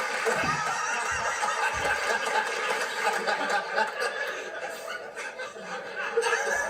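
Studio audience laughing at a contestant's answer, a dense crowd laugh that eases off a little toward the end.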